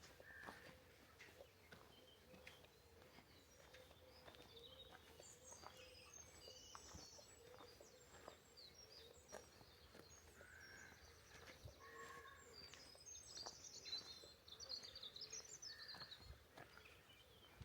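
Faint birdsong: several small birds singing and chirping in short high phrases, busiest near the end.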